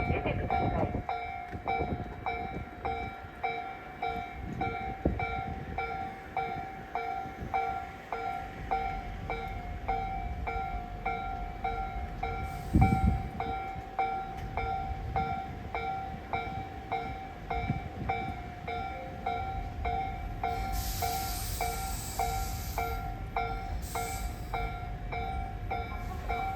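A level-crossing warning bell chimes steadily about twice a second over the low rumble of a commuter train at the station. About halfway through there is a thump, and a burst of air hiss follows about three quarters of the way in.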